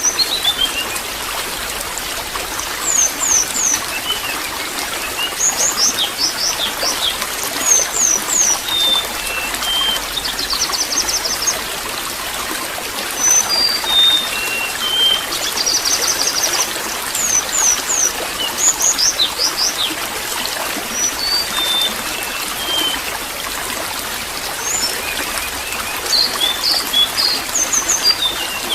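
Water trickling and splashing steadily, with small songbirds chirping over it in repeated bursts of short high notes, quick down-sweeping calls and brief rapid trills.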